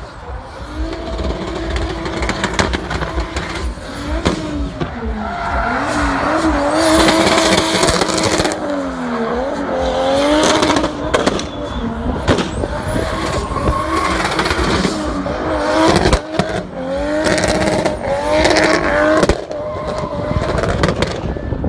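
Drift car engine revving up and down over and over while its tyres squeal in long slides, with sharp pops in between.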